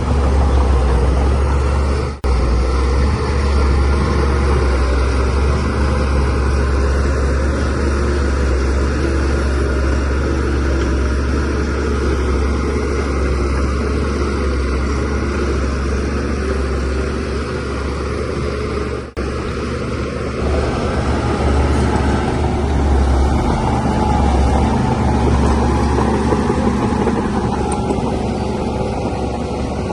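DH17C3 bulldozer's diesel engine running steadily with a deep drone while working. The sound cuts out for an instant twice, about two seconds in and again near the middle.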